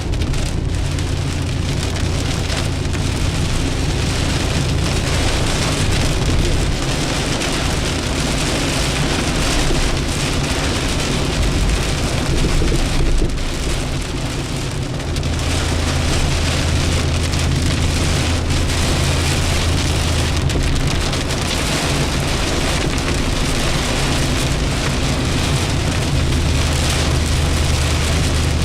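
Heavy hurricane rain falling steadily, a dense hiss with a steady low rumble underneath.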